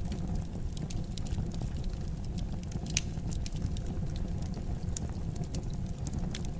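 Fire burning in a fireplace: a steady low rumble of flames with frequent small crackles and one sharper pop about three seconds in.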